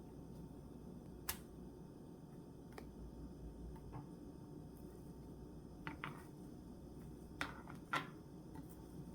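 Faint, steady low room hum with a handful of scattered light clicks and taps, the sharpest two about a second in and near the end.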